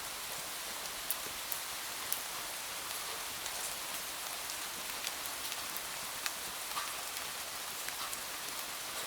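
Steady rain, an even hiss with scattered sharp clicks at irregular intervals.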